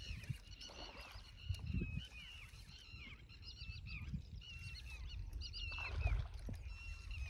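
Birds calling: many short chirps repeating throughout, over a low rumble.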